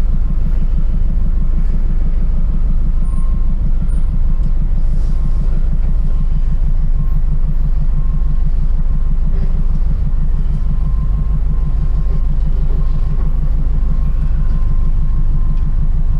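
Truck engine running steadily, a continuous low rumble with an even pulse.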